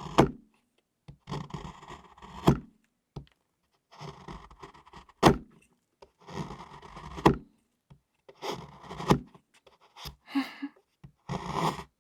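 A kitchen knife cutting and shaving a bar of chocolate in repeated strokes, one about every two to two and a half seconds. Each stroke is a short crunchy scrape through the chocolate that ends in a sharp knock as the blade comes down.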